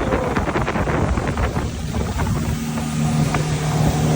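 Motorboat engine running, with wind buffeting the microphone; a steady low engine hum grows firmer in the second half.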